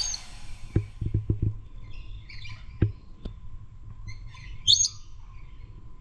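Several birds chirping in short scattered calls, the loudest a sharp high chirp near the end. A few short knocks or taps come in the first half, over a faint steady tone.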